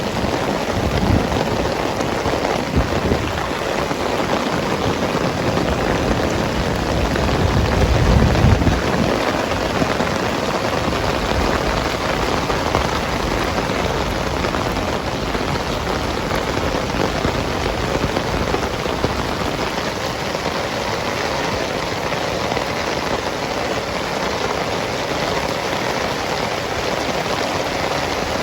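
Heavy rain falling steadily, an even hiss. A low rumble swells under it twice, loudest about eight seconds in.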